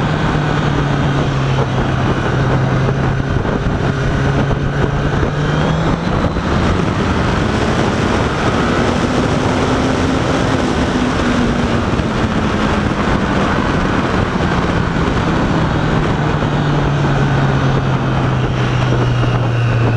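Motorcycle engine running under way, with a steady rush of wind. The engine pitch climbs near the middle and eases back down towards the end.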